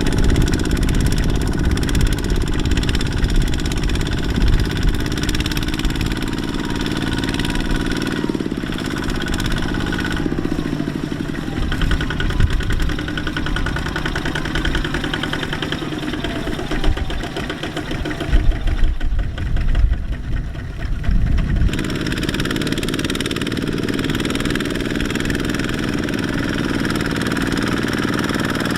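Kubota mini tractor diesel engines running under load in mud, the engine note shifting a few times. About two-thirds of the way through there are a few seconds of heavier low rumbling.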